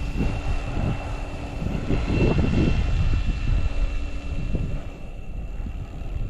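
Electric RC helicopter, an SAB Goblin Fireball with a direct-drive motor, in flight: a steady high motor and rotor whine over gusts of wind buffeting the microphone.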